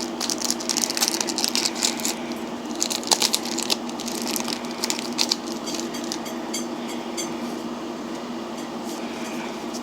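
Foil Pokémon booster pack crinkling as it is torn open, and cards rustling and clicking as they are handled and rearranged; the crackling is dense for the first few seconds, then sparser. A steady hum runs underneath.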